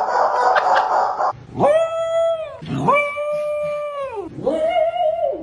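A dog howling three times, each howl a long held note that rises, holds and falls away, after about a second of noisy background sound.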